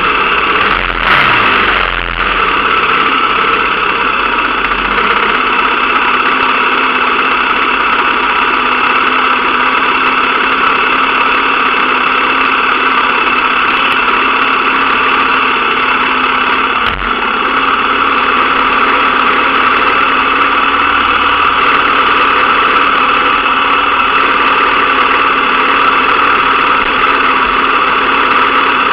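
Dirt bike engine running loud and steady at a constant throttle, with one brief dip partway through.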